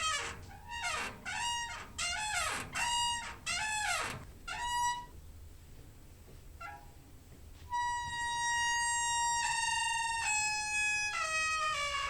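Door hinge squeaking: a quick run of short creaks that bend in pitch, then after a pause long, steady squeaks that step in pitch.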